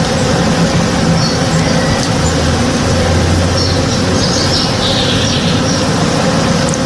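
Swarm of honey bees buzzing steadily as they forage on a blossoming tree, a continuous low hum. Birds chirp in brief calls above it.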